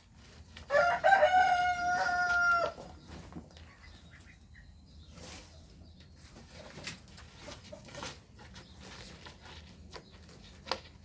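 A rooster crows once, about a second in: a single call held level for about two seconds. Afterwards there are faint scattered knocks and rustles.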